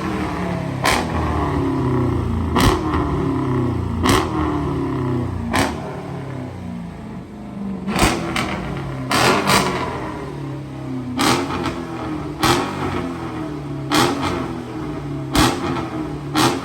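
Dodge Challenger's 5.7-litre Hemi V8 running through an aftermarket exhaust, revved in repeated short blips about every second and a half, each falling back toward idle.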